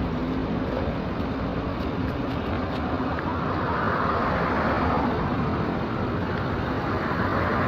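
Road traffic noise: a steady mix of vehicle engines and tyres passing close by, swelling about four seconds in as a vehicle goes past.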